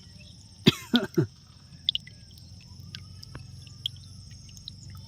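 A man coughs, two short coughs about a second in, over a steady background hiss.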